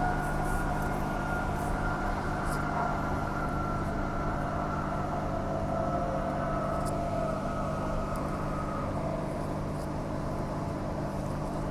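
Interior of a Walkers Limited A-series electric multiple unit running at speed: a steady low hum and rumble with a traction motor whine over it, the higher whine fading in the last few seconds.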